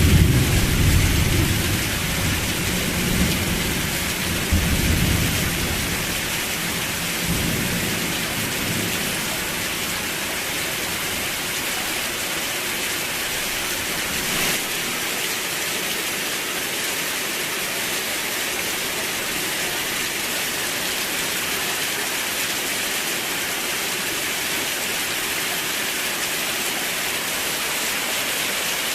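Steady rain, with a low rumble of thunder that swells a few times in the first several seconds and then rolls away, leaving only the even hiss of the rain.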